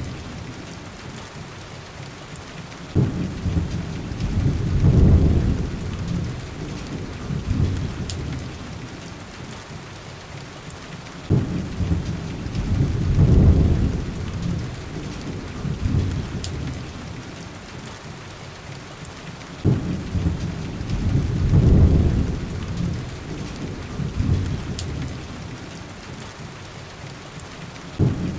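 Heavy rain falling steadily on window glass, with low rolls of thunder that start suddenly, swell and die away three times, about eight seconds apart. A few faint, sharp crackles from a wood fire.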